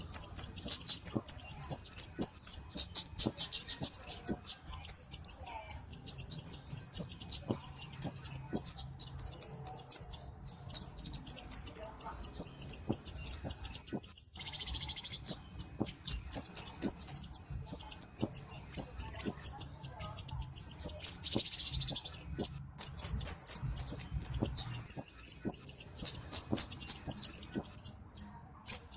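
Flowerpecker (cabe-cabean, kemade) singing: fast, high-pitched runs of ticking notes, each run a second or two long, repeated over and over with short pauses. A brief hiss cuts in twice, about halfway and about three-quarters of the way through.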